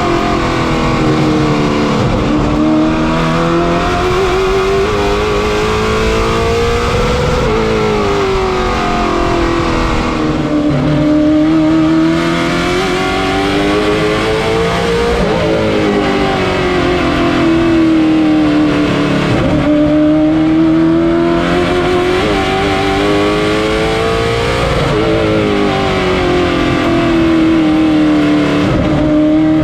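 Late model stock car's V8 racing engine running at speed on track. Its pitch climbs and falls back repeatedly, every few seconds, as it accelerates and backs off.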